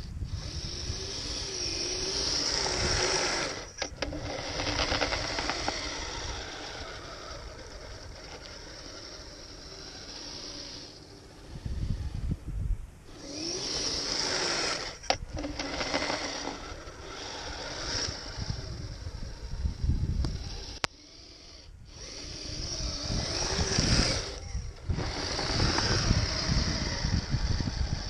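Kyosho Blizzard RC snowcat's electric drive motors and gearboxes whining as it drives on its tracks, with a high gear-and-track rattle. The whine rises and falls with the throttle and stops and starts several times in short runs.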